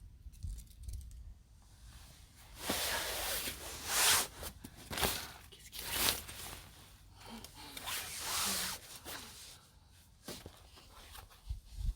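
Irregular bursts of rustling and scraping noise, several of them, each up to about a second long, like gear or fabric being handled.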